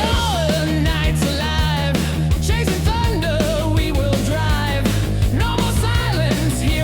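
Hard rock instrumental: an electric guitar lead playing bent, wavering notes over steady bass and drums.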